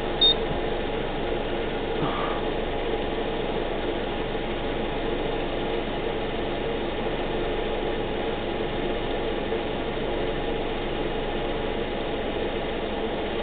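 2012 Subaru Outback's engine idling steadily, left running so the CVT fluid warms up for a level check. A short high beep sounds just after the start.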